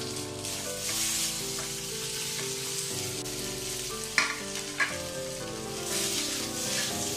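Rice-flour dumplings sizzling as they are slid into a wok of hot ghee with mustard seeds, urad dal, red chillies and curry leaves, then stirred. There are two sharp knocks of a utensil about four seconds in, over soft background music.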